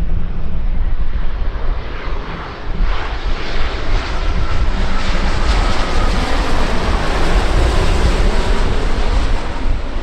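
An airliner's engines swell from about three seconds in as it passes. A faint whine sinks slowly in pitch, over a heavy low rumble.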